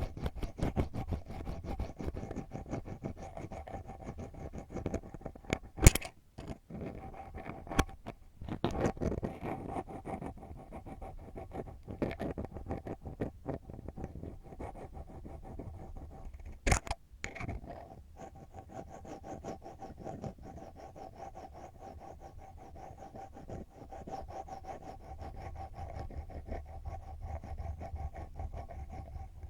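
ASMR ear pick scratching deep in an ear, close to the microphone, in fast, dense strokes. Two sharp knocks stand out, about six seconds in and again near the middle.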